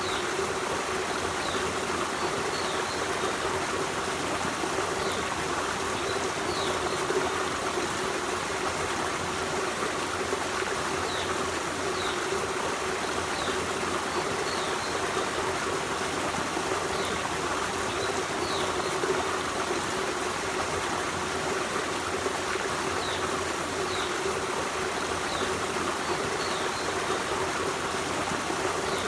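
Forest stream running steadily, a continuous rush and babble of flowing water. Faint short high chirps come through now and then.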